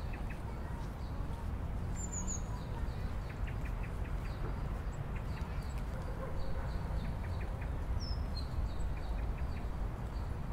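Outdoor ambience: a steady low rumble with birds chirping over it. A quick run of three high, falling chirps comes about two seconds in, and another falling chirp comes later.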